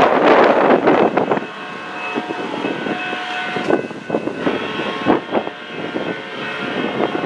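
A SunRail commuter train rolling past: the loud rushing noise drops away about a second and a half in, leaving irregular wheel clicks and faint steady ringing tones from the rails and wheels.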